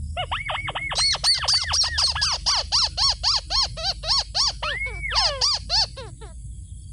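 Rail calls, from a waterhen or crake: a fast run of repeated arched notes, several a second. A second, higher-pitched series joins about a second in and stops near the six-second mark.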